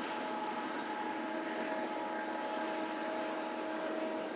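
Freight train rolling past: a steady rush of wheel and rail noise with several steady ringing tones held over it.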